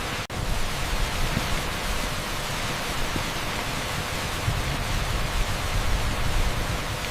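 Torrential rain pouring onto an asphalt street: a dense, steady hiss like pink noise. The sound cuts out for a split second just after the start.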